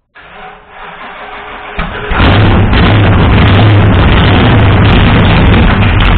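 Cold start of a 503 cubic inch big-block Ford V8 with a big solid-lifter cam, exhausting through short open side-dump pipes. The starter cranks and the engine catches about two seconds in, then runs loud and steady.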